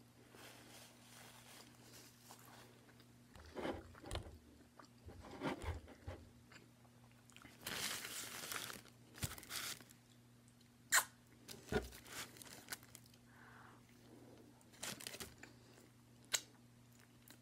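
Close-up eating sounds: chewing and lip smacks of someone eating a sandwich, with a longer rustle of the paper wrapper about eight seconds in and a few sharp mouth clicks later on.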